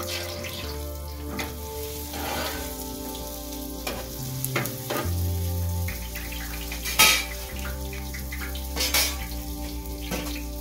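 Dough frying in hot oil in a wide pan, a steady sizzle. A couple of sharp clicks come about two-thirds through and near the end, over soft background music with sustained low notes.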